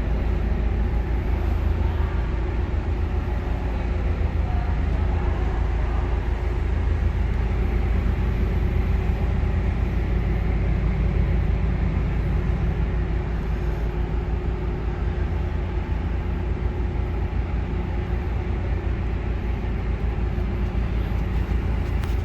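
Narrowboat's diesel engine running steadily at cruising speed inside a canal tunnel, a constant low throb.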